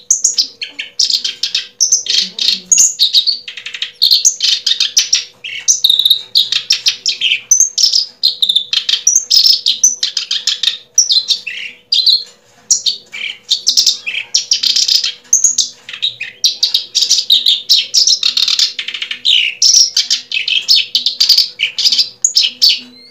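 Bird chirping and twittering, loud and continuous, in quick runs of high notes, with a faint steady hum underneath.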